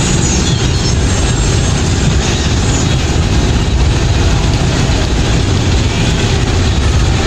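Loud, steady running of a nearby boat engine, a low rumble mixed with a hiss of noise that does not let up.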